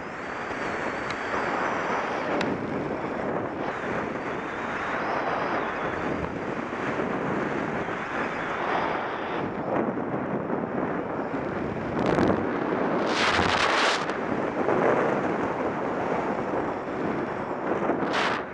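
Strong wind buffeting the microphone: a steady rushing roar with a few brief louder gusts of hiss, the strongest lasting about a second around two-thirds of the way in.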